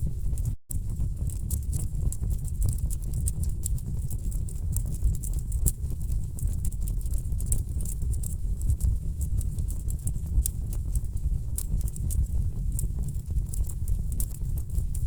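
Wood fire crackling in a fireplace: a steady low rumble of burning logs with rapid, irregular sharp pops and snaps. The sound cuts out completely for a moment under a second in.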